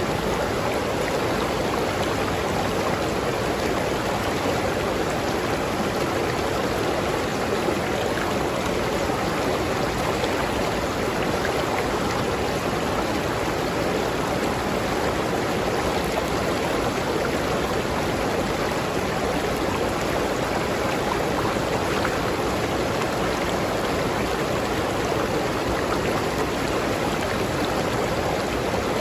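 River stream flowing over rocks in a steady, unbroken rush of water.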